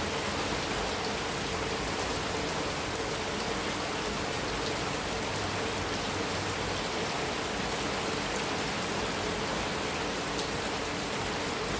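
Heavy rain falling steadily on a metal roof, a dense even hiss with fine drop ticks.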